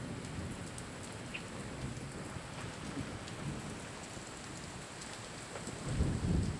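Steady rain falling on pavement, parked cars and a flooded street: an even hiss with scattered drop hits. A low rumble swells about six seconds in.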